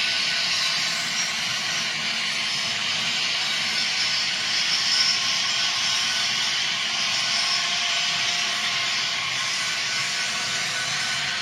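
Atlas N scale MP15DC model locomotive running steadily along the track: a continuous high whirring hiss from its small motor, gears and wheels.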